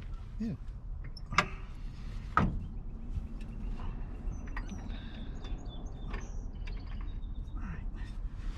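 Freshly freed, diesel-soaked Merc engine being turned over by hand: a couple of sharp metal clicks in the first few seconds, then scattered faint ticks and scrapes over a low steady rumble.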